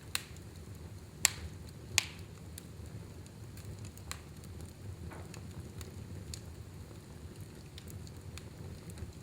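Wood fire burning in a fireplace: a steady low rumble of the flames with scattered sharp crackles and pops, two loud snaps about a second and two seconds in.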